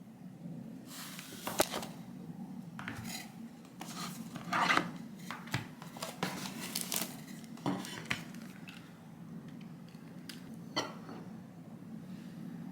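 Dishes and cutlery clinking and clattering in scattered knocks, the loudest about a second and a half in and around the middle, over a steady low hum.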